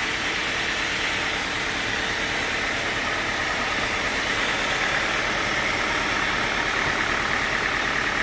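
Sawmill machinery running steadily: an engine note with a constant hiss, with no distinct cuts or impacts.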